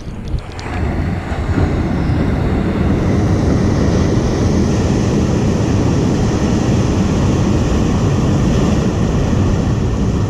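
Ocean waves breaking and washing in at high tide, a loud, steady roar that builds over the first second or two and then holds.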